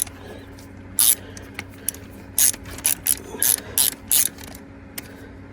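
Ratchet-driven flaring tool clicking in slow, uneven strokes, about ten clicks, as it swages a flare onto a copper refrigerant line.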